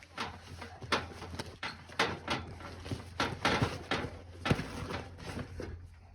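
A series of sharp, irregular knocks and clatters, roughly one or two a second, over a steady low hum.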